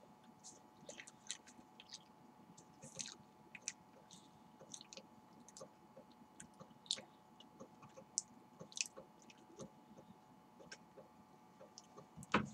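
Person chewing the last bite of a banana close to the microphone: irregular soft, wet smacking and squishing mouth sounds, with one louder sharp click near the end.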